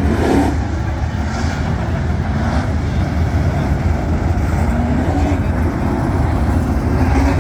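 Dirt-track race trucks' engines running hard on the track, a heavy low rumble with engine pitch rising and falling as they accelerate and ease off.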